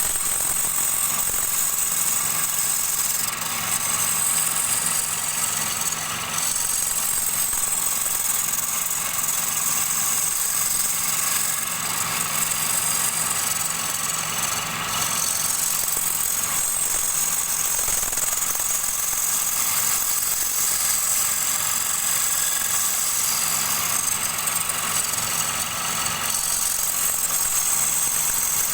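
Wood lathe running steadily: a constant motor hum under an even high hiss.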